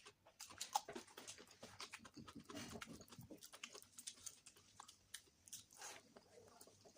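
Close-miked chewing and lip-smacking of someone eating rice with egg curry: a faint, irregular run of soft wet clicks and smacks.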